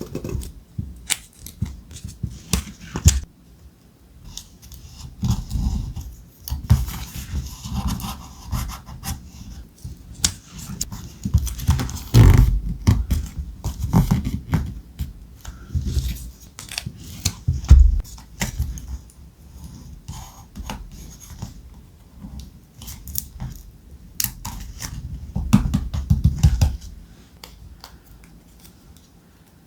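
Thick paper handled close to the microphone: rustling and scraping, with many small taps and clicks and a couple of louder knocks partway through.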